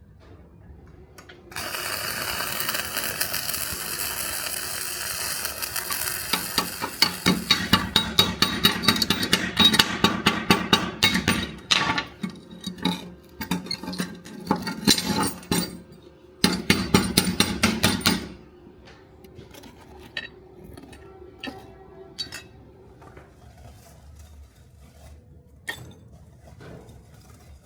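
Metalworking sounds: a steady rushing noise for about five seconds, then a run of sharp metallic strikes, about three a second, followed by scattered lighter clinks.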